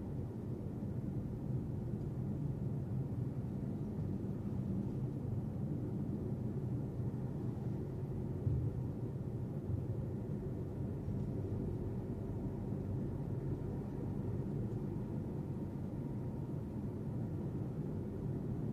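A car driving, with a steady low rumble of road and engine noise and a couple of faint bumps about halfway through.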